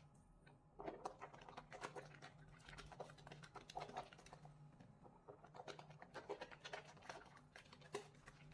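Soap being lathered into wet suds: a dense, irregular run of quick squishing and crackling clicks that picks up about a second in.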